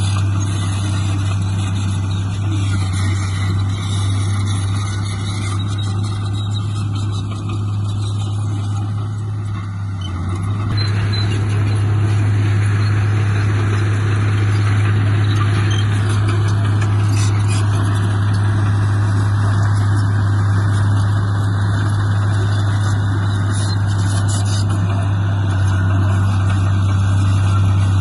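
Heavy diesel engine of earthmoving machinery running steadily with a deep, even hum, growing louder about ten seconds in as it takes on more work.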